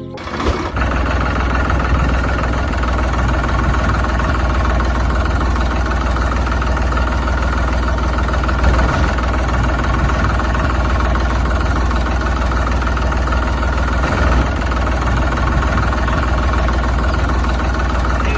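Engine running steadily at idle with a deep, even hum, cutting in right after music stops.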